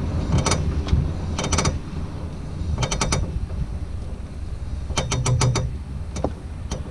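Worn CV joint on a Ford Focus Mk1 front driveshaft clicking in quick clusters every second or two, over the low rumble of the car: the sign of a bad CV axle joint.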